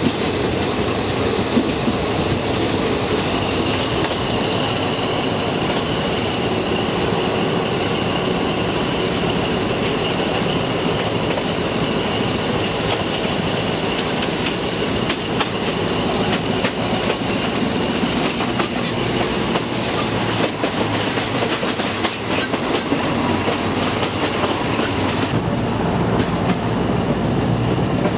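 Passenger train running along the track: a steady rumble of the carriage with wheel clatter and a thin high whine from the wheels. About 25 seconds in, the whine cuts off and the low rumble grows louder.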